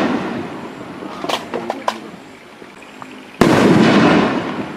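Aerial firework shells from a 24-shot canister-shell cake going off. A shell burst fades away, a few sharp cracks follow about a second and a half in, and another shell bursts with a loud bang about three and a half seconds in, its sound trailing off slowly.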